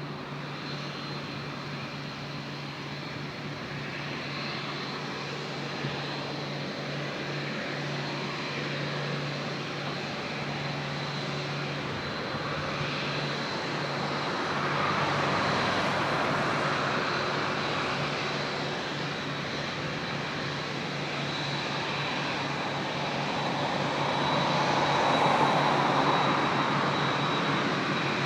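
Jet airliner engines running close to the runway: a steady rush with a thin high whine, swelling louder about halfway through and again near the end.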